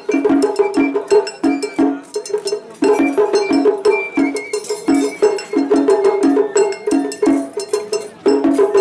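Japanese festival hayashi music: rapid, rhythmic taiko drum strokes with a clanging hand gong (atarigane), and short high bamboo-flute notes now and then.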